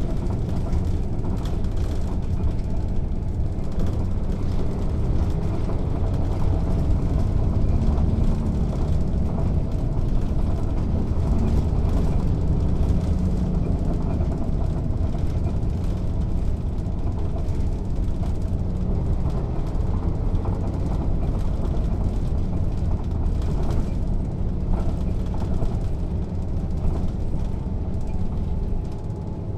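Mercedes-Benz O 407 city bus running on the road: its six-cylinder diesel engine gives a steady, heavy low drone, mixed with road and body noise. The sound eases off slightly near the end.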